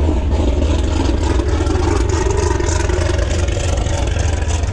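Ford Coyote 5.0 V8 car engine and exhaust running steadily under way, a constant deep drone with road noise.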